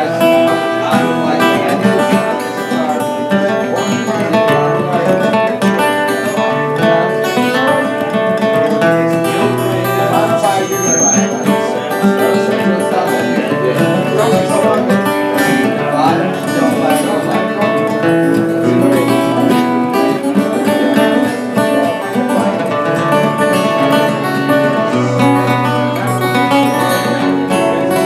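Acoustic guitar playing the picked instrumental introduction to a country-folk song, before any singing.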